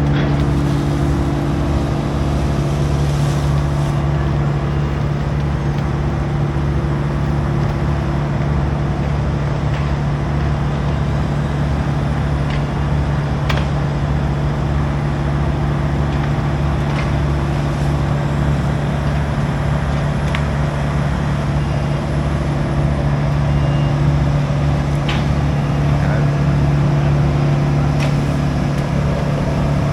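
Engine of heavy tree-work machinery running steadily at a constant speed, a deep even hum that swells slightly in the second half, with a few faint ticks.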